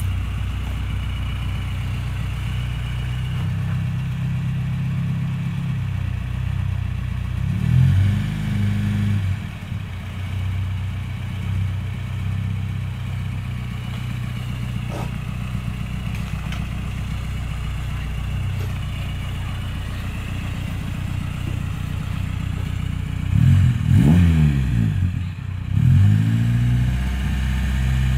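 Renault 19 engine idling steadily through a modified exhaust, blipped once about eight seconds in and twice more near the end, the note rising and falling back to idle each time.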